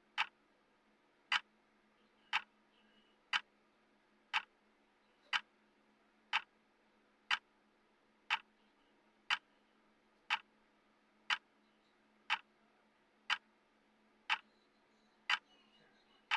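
Countdown timer's clock-like tick sound, one sharp tick each second, evenly spaced, about sixteen ticks, over a faint steady low hum.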